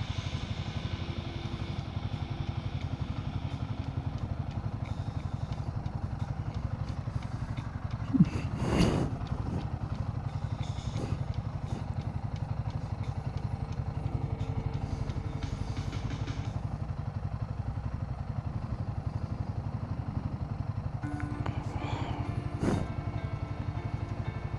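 Royal Enfield Himalayan 450's single-cylinder engine running steadily under way, with a brief loud knock about a third of the way in and another near the end.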